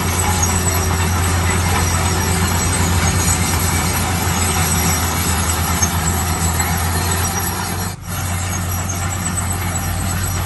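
Heavy construction machinery running steadily, a low diesel engine hum with mechanical clatter and noise over it, briefly dropping out about eight seconds in.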